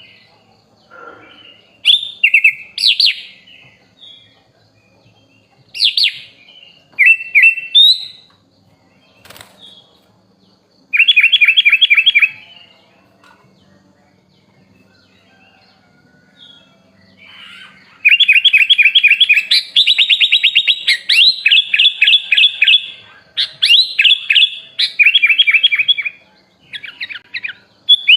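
Sooty-headed bulbul (kutilang) singing: short bursts of fast chattering trills separated by pauses, then a long run of rapid repeated notes about two-thirds of the way in.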